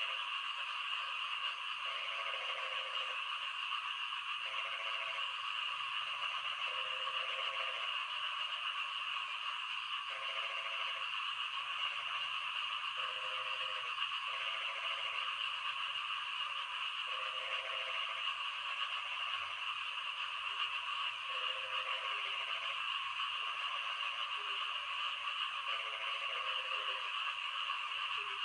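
A frog croaking over and over, a low call repeating about every one and a half to two seconds, over a steady high hiss of rain and a dense background chorus.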